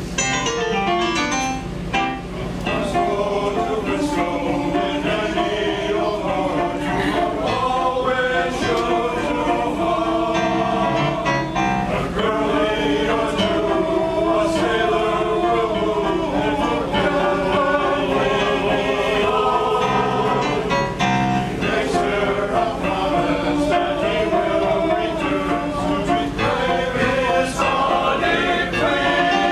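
Male chorus singing in parts, several voices holding and moving together through a song.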